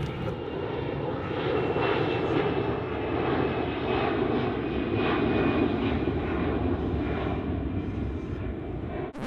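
A dirt bike engine running steadily.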